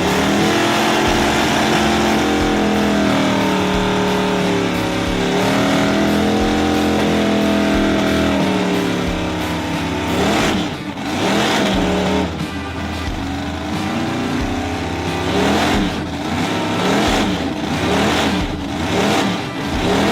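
Car engine held at high revs for about nine seconds, its pitch wavering, then revved up and down in quick blips about once a second.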